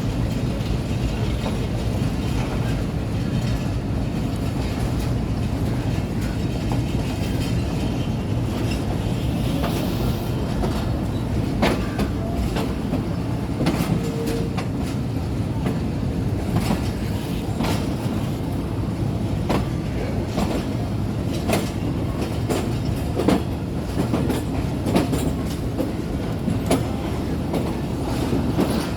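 Passenger train running along the track: a steady low rumble of the carriage and wheels, with irregular sharp clicks and knocks from the wheels over the rails.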